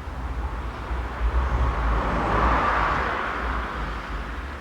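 A passing vehicle: a rushing noise that swells and then fades over a few seconds, over a low rumble.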